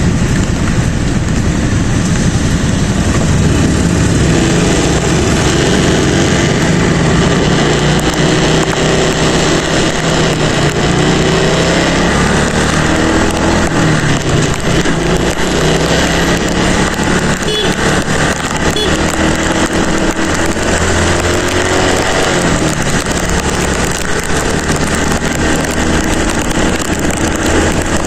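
Motorcycle engine running while riding, its pitch rising and falling with speed, over a steady hiss of rain and wind noise.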